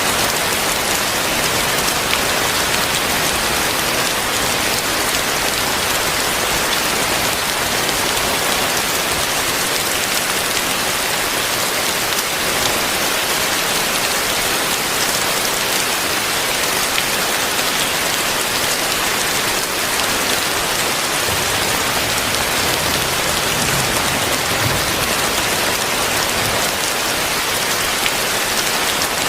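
Heavy rain falling steadily on surfaces, a dense even hiss that holds the same level throughout.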